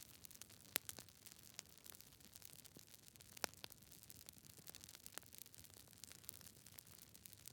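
Campfire crackling: irregular sharp pops and snaps from burning wood over a faint hiss, with two louder pops, one near the start and one about three and a half seconds in.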